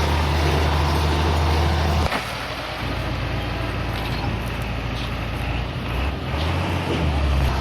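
Heavy diesel engine running steadily with a deep, even note, which changes abruptly about two seconds in to a slightly quieter, rougher running.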